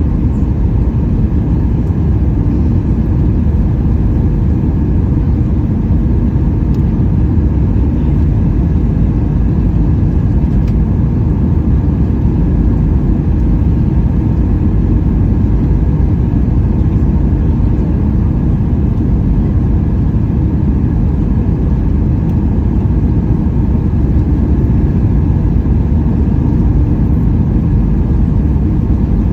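Steady low rumble of a Boeing 737-800's CFM56 jet engines and the airflow over the fuselage, heard inside the passenger cabin on the approach to landing, with a few faint steady higher tones above it.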